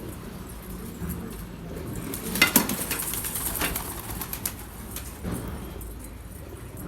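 Domestic pigeons cooing in a loft, with a burst of wing flapping and clatter about two and a half seconds in that is the loudest moment.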